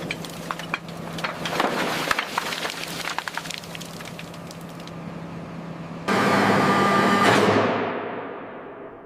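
Corroded metal and rigging creaking and crackling with rapid snaps as a hoist takes up the tank's weight, then about six seconds in a sudden loud grinding crash with a ringing note that fades away.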